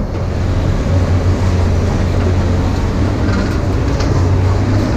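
Vehicle in motion: a steady low rumble with road noise.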